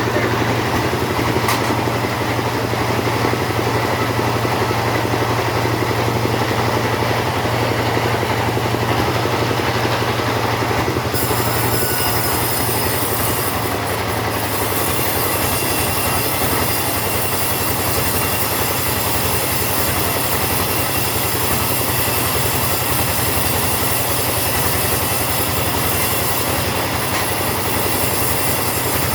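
Two-stroke chainsaw running steadily under load as it cuts teak timber. The sound grows a little brighter about eleven seconds in.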